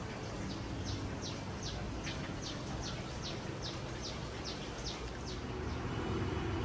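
A bird calling: a run of about a dozen short, high, downward-slurred notes at roughly two or three a second, over a steady low background noise.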